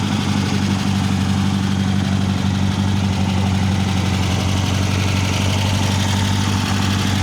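Car engine idling steadily, a deep, even engine note with no revving.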